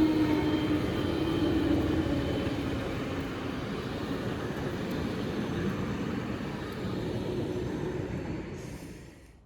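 Roslagsbanan narrow-gauge electric train running past on snowy track, with a motor whine falling in pitch over the first few seconds over a steady rumble of wheels on rail. The sound drops away sharply near the end.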